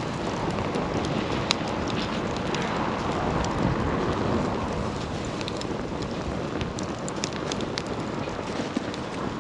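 Wood campfire burning: a steady rush of flames with scattered sharp crackles and pops from the burning wood, a few of them close together about two-thirds of the way in.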